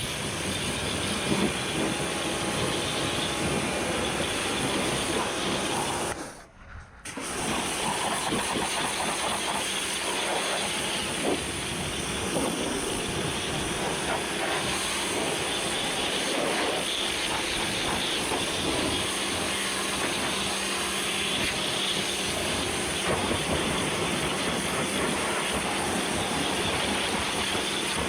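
Pressure washer spraying water, a steady loud hiss that stops for about a second some six seconds in, then starts again and cuts off at the end.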